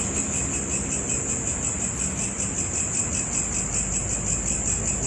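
Insect song: a steady, high-pitched, rapidly pulsing trill that goes on without a break.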